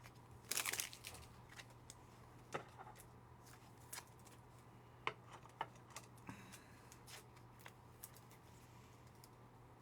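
Trading cards being handled and slid against one another: faint scattered clicks and short rustles over a low steady hum.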